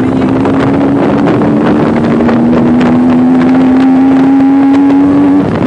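Motorcycle engine and exhaust held at high revs, its note climbing slowly, then dropping off suddenly near the end.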